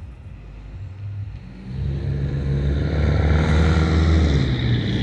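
Metra commuter train drawing near and passing: a diesel locomotive engine's steady low drone and wheel-on-rail noise. It gets much louder from about two seconds in and stays loud.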